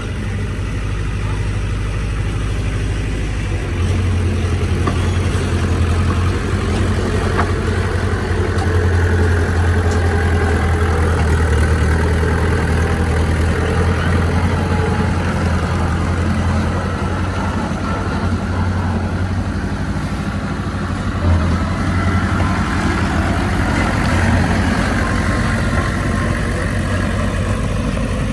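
Heavy diesel earthmoving engine running steadily with a deep drone. It grows louder about four seconds in, as if under load, and eases back after about twenty seconds.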